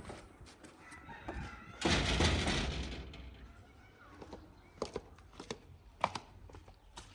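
A rooster crowing once, loud and harsh, starting about two seconds in, followed by a few scattered knocks.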